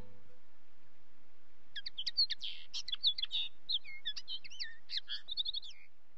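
A songbird singing one varied phrase of quick rising and falling whistled notes, ending in a short rapid trill. Just before it, the last note of music cuts off.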